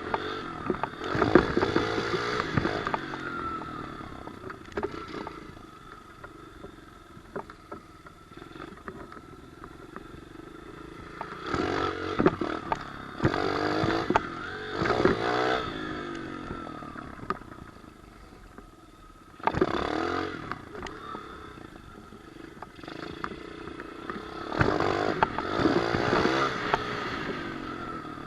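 Single-cylinder pit bike engine revving up in repeated bursts, the pitch rising and falling with each, with quieter stretches of low running or coasting in between.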